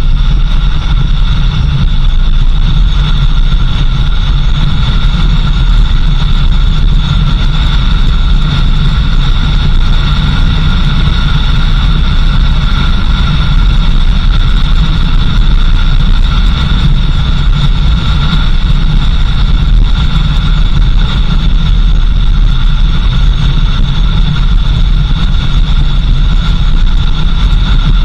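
4x4 vehicle driving along a dirt road: a steady, loud engine and road rumble with a constant higher hum or whine over it.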